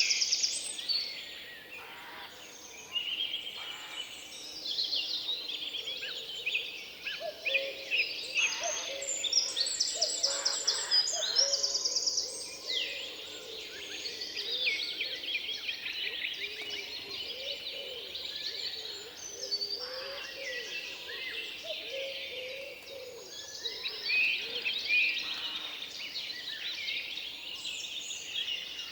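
Forest birdsong: several birds singing over one another, with high rapid trills and lower warbling phrases.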